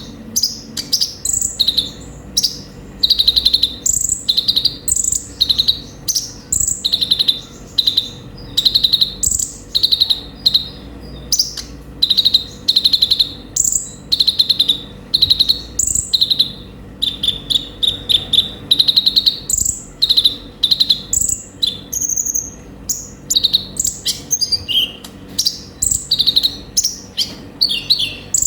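Kolibri ninja (konin) sunbird singing a busy, high-pitched song of rapid chirps and trills, the phrases coming about once a second without a break.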